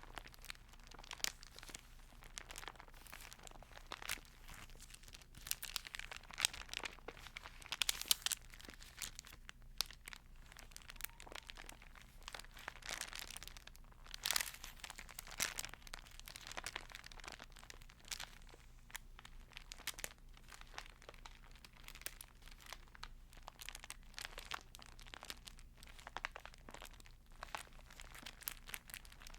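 Close-up paper crinkling and rustling from a Bible's pages being handled and turned, an uneven stream of small crackles and ticks with a few louder rustles.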